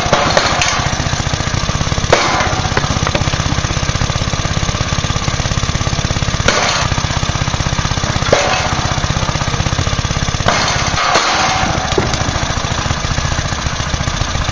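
An engine running steadily and loudly with a fast, even pulse, with brief louder surges about two, six and a half, eight and eleven seconds in.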